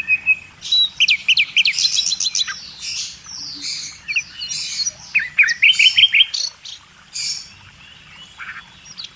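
Birds chirping and calling: quick runs of short chirps come in two busy bursts, with a few harsh calls mixed in, then the calls thin out near the end.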